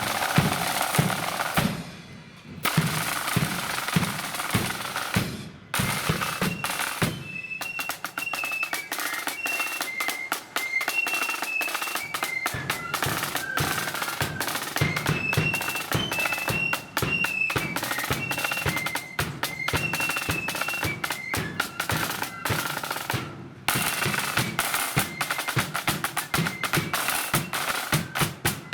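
Marching flute band. Snare drums play rolls with bass drum beats, and from about seven seconds in high flutes play a tune over them. Near the end the flutes stop and the drums carry on alone.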